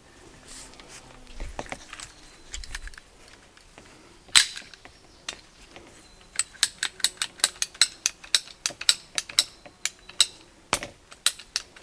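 Hand pipe cutter clicking repeatedly as it is worked through black poly water pipe: a single sharp click, then a quick run of clicks, with a few louder snaps near the end.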